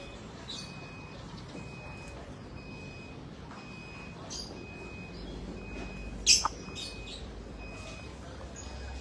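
An electronic beeper sounding a steady high tone about once a second, like a reversing alarm. Short sharp lovebird chirps come through it, the loudest about six seconds in.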